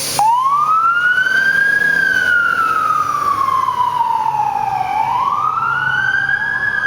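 Fire engine's wailing siren starting up sharply just after the start, rising, falling slowly over about three seconds and rising again, with the truck's engine rumbling beneath.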